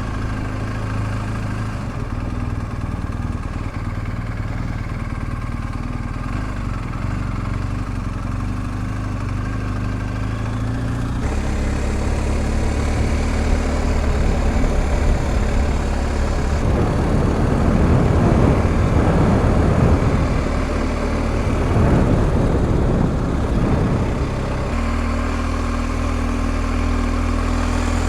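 BMW R1250 GS Adventure boxer-twin engine running at low speed. A louder, noisier stretch in the middle brings more wind and engine, and it settles back to a steady low note near the end.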